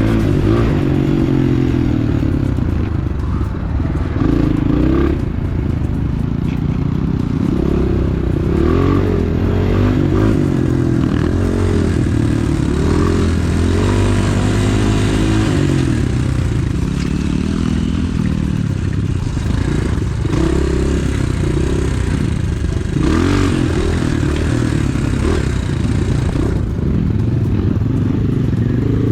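Pit bike engine running under load on an enduro trail, its pitch rising and falling constantly as the throttle is worked. There is a little scraping and clattering along with it.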